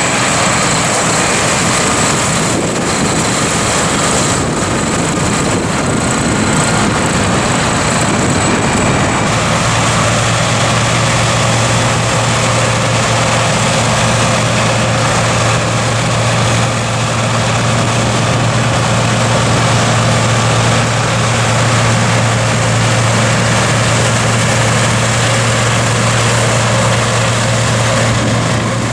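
Massey Ferguson tractor engine running steadily while working a forage harvester cutting silage. About a third of the way in, the engine drone gets stronger and a faint high whine fades out.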